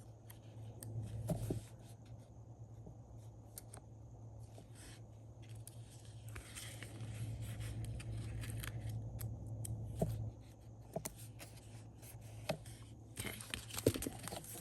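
Handling of paper and stickers on a planner page: scattered light taps and clicks with a stretch of soft rustling, over a steady low hum.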